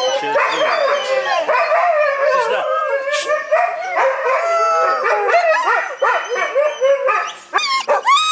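A chorus of many shelter dogs barking and howling at once, overlapping calls rising and falling in pitch.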